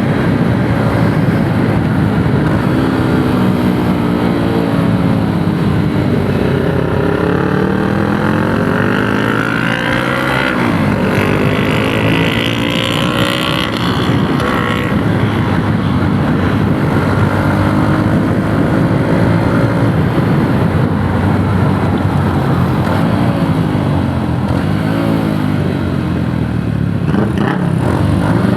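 Yamaha YTX 125 cafe racer's single-cylinder four-stroke engine running under way, its pitch climbing and then dropping again several times as it accelerates through the gears.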